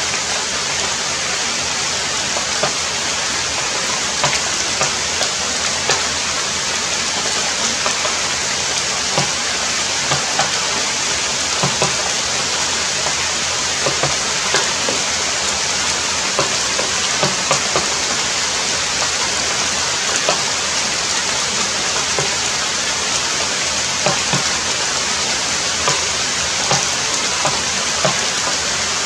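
Heavy rain falling steadily, with frequent irregular louder drops striking a nearby surface.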